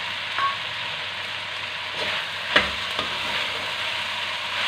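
Sliced onions and tomato pieces sizzling in hot oil in an aluminium karahi as a spatula stirs them. Steady frying hiss, with one sharp knock of the spatula against the pot about two and a half seconds in and lighter clicks either side of it.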